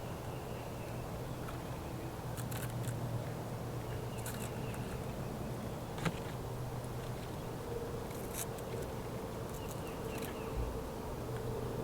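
A steady low hum with about five short, sharp clicks and snips spread through it, from pots and tools being handled while repotting plants.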